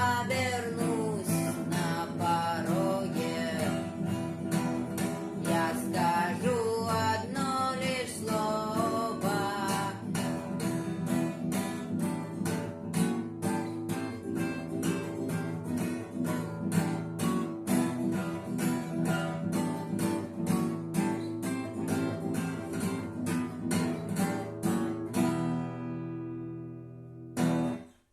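Acoustic guitar strummed with a voice singing over it for about the first ten seconds, then strumming alone; it ends on a chord left ringing for about two seconds before cutting off suddenly.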